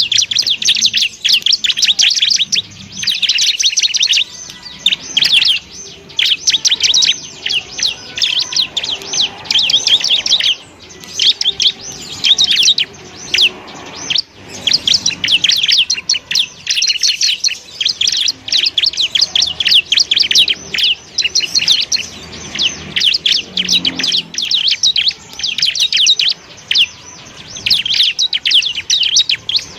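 Bar-winged prinia (ciblek) singing: a fast, high-pitched chatter of rapid chirps in long bursts with brief pauses.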